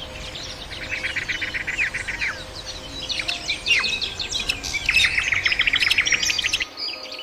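Songbirds singing: quick falling whistled notes and rapid chattering trills, one trill about a second in and a louder, longer one from about five seconds.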